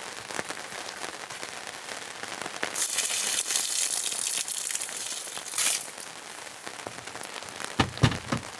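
Steady rain pattering and crackling on surfaces. A louder hiss swells for about three seconds in the middle, and a few sharp knocks come near the end.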